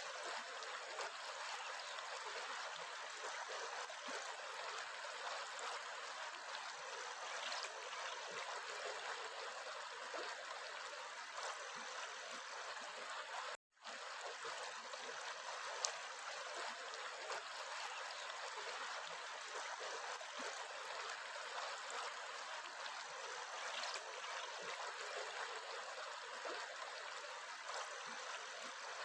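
Steady rushing of a flowing stream, an even hiss of running water. The sound drops out for a split second about halfway through.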